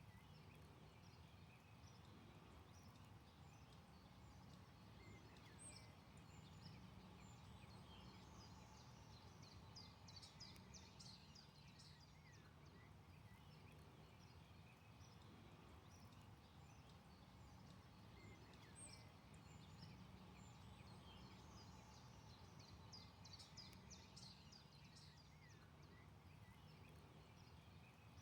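Faint forest ambience of small birds chirping and twittering, busiest in two spells around ten and twenty-four seconds in, over a steady low hum.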